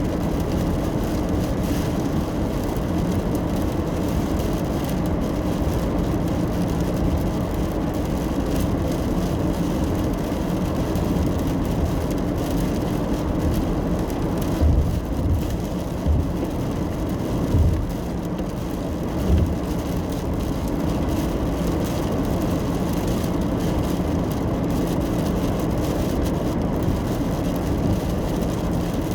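Steady road and engine rumble heard inside a car driving in the rain, with a faint steady hum. A few short low thumps come between about 15 and 20 seconds in.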